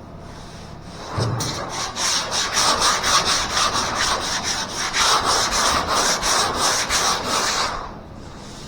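Hand block sanding of body filler on a car body panel: a quick, steady back-and-forth scratching rhythm that starts about a second in and stops shortly before the end. The filler is being worked down to the point of reaching bare metal.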